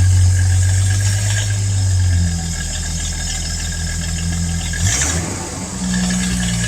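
1978 Ford straight-six engine running after a Seafoam treatment, burning the cleaner out of the engine. Its speed drops about two seconds in, and there is a short noisy burst and another change in engine note around five seconds.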